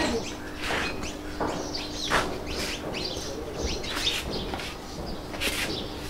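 Birds chirping: short, sharp, high calls every half second or so, over a faint steady hum.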